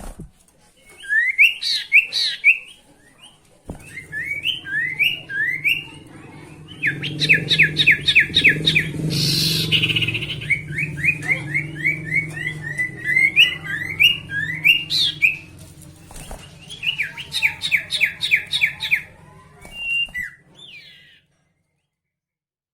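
Sirtu songbird singing in quick bursts of fast, rising chirped notes, phrase after phrase with short pauses, over a steady low hum. A brief rushing hiss sounds near the middle.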